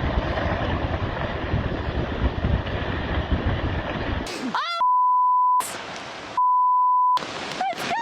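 A loud, rumbling rush of noise, like wind on the microphone, for about four seconds. Then two steady beeps of the same pitch, each under a second long, about two-thirds through: censor bleeps over swearing.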